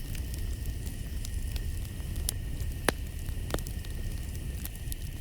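Campfire crackling, with a steady low rumble and scattered sharp pops, the loudest about three seconds in.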